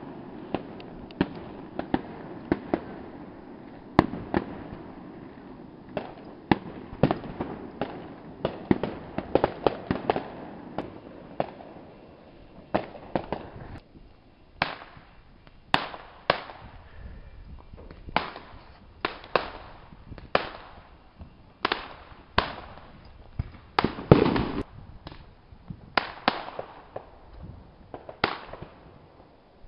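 Aerial fireworks shells bursting: a long string of sharp bangs, packed close together in the first half and spaced out to about one a second in the second half, several trailing off in a rumble.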